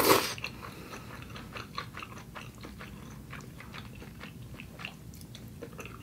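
Close-miked chewing of soft noodles that she finds a little overcooked and mushy: a louder mouth sound right at the start, then a run of small, quick wet mouth clicks.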